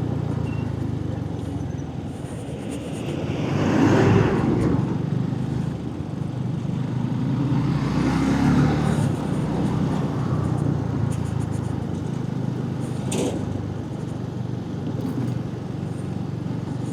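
Suzuki Gixxer 250's single-cylinder engine running steadily while riding over a rough, broken road, swelling louder twice, about 4 and 8 seconds in. A single sharp knock comes near the end.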